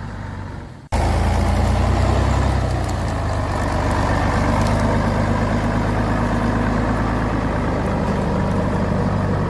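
A truck engine running loudly, heaviest for the first second or so after an abrupt cut, then holding steady.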